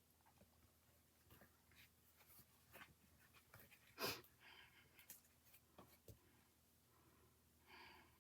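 Faint rustling and small clicks of paper and craft embellishments being handled on a desk, with one sharper tap about four seconds in.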